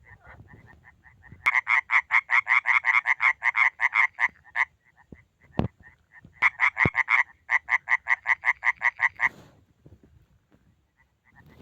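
A frog calling in two loud, rapid trains of pulsed croaks, about seven pulses a second, each train lasting about three seconds with a short break between them; fainter calls of the same kind at the start and end. Two dull knocks in the break.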